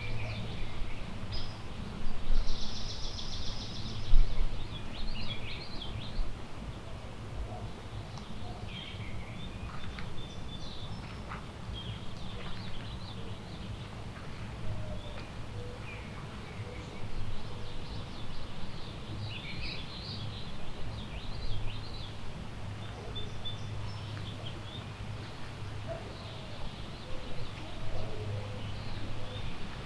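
Woodland songbirds chirping and calling in short scattered notes, with a brief buzzy trill a couple of seconds in, over a steady low rumble.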